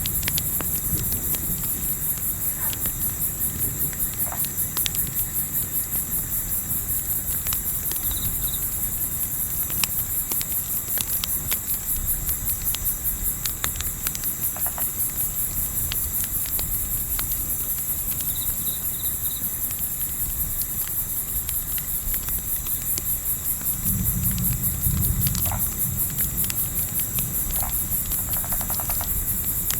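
Crickets chirping in a steady, fast-pulsing high trill, with scattered sharp pops and snaps from a crackling campfire. A low rumble swells briefly about 24 seconds in.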